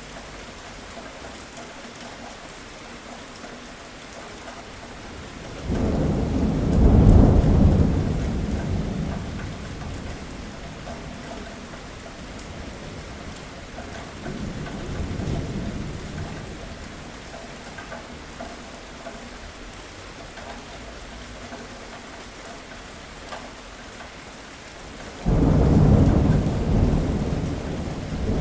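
Steady rain falling, with thunder rumbling in twice: a sudden deep rumble about six seconds in that swells and fades over a few seconds, a softer roll near the middle, and another sudden rumble near the end.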